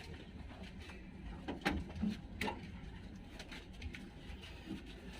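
A few short, sharp metallic clicks and taps over a low steady hum: hand tools working on a Mitsubishi 4D56 diesel's valve train while the clearances are set, with the engine not running.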